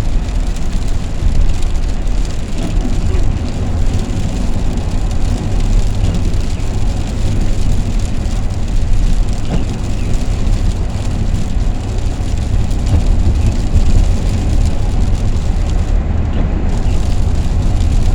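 Steady low rumble of road and engine noise inside a moving van's cab.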